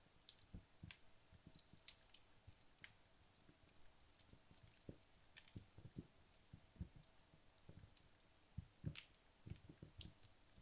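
Wood logs burning in a fireplace, crackling faintly with scattered irregular pops and ticks, some sharp and high, others soft low knocks.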